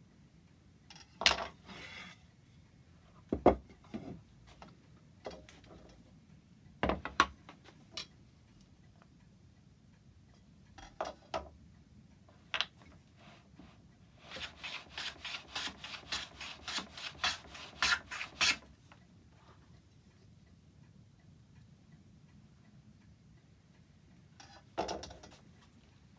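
Hand work on oak clock-case wood: a few separate knocks and scrapes, then about four seconds of quick rubbing strokes on the wood, about five a second, and one more short scrape near the end.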